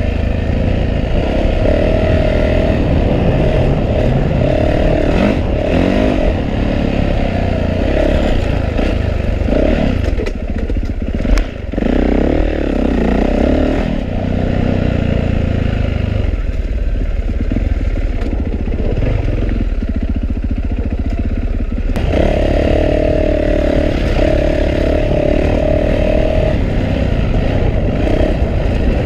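Yamaha YZ450F's single-cylinder four-stroke engine running hard on a dirt trail, its pitch rising and falling over and over as the throttle opens and closes, heard from a helmet chin-mounted camera. A single sharp knock comes about eleven seconds in.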